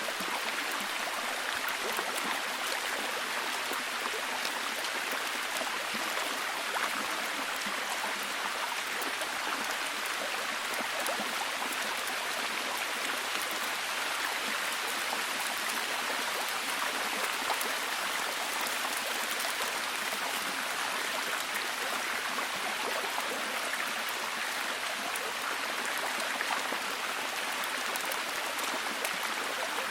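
Steady, heavy rain falling: an even hiss with many fine, close-packed drop ticks and no change in level.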